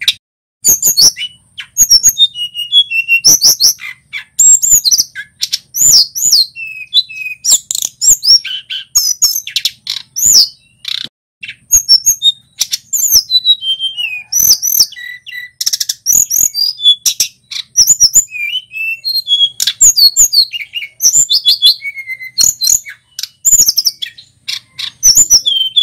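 Male tledekan gunung (a blue flycatcher) singing a fast, varied song of high chirps and whistled notes, in dense phrases broken by short pauses.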